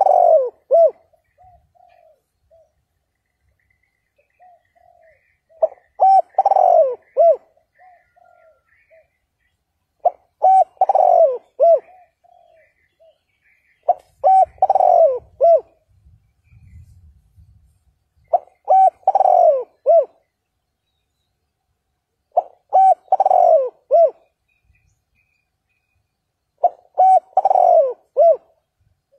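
Spotted dove cooing: a short phrase of several coos, repeated seven times at about four-second intervals.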